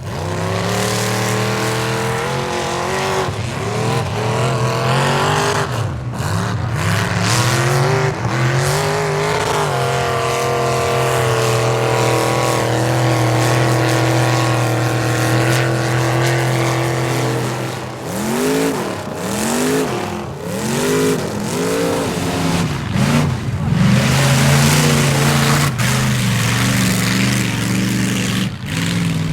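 Square-body Chevrolet mud-bog pickup's engine run hard: it climbs in revs, holds high revs steady for several seconds, then rises and falls in about half a dozen quick surges as the throttle is pumped.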